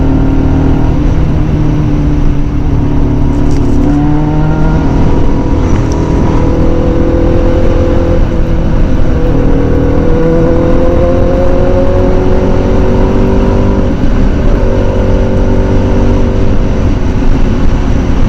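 A 2006 Kawasaki ZZR600's inline-four engine running at road speed. Its pitch climbs gradually for several seconds as the bike accelerates, then holds, over a heavy rush of wind noise.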